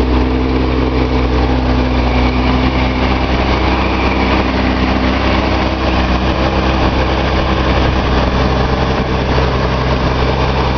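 Nissan L28 fuel-injected straight-six with a Maxima cylinder head, running steadily on an open engine test stand at fast idle shortly after a cold start, the auxiliary air regulator still holding the idle up.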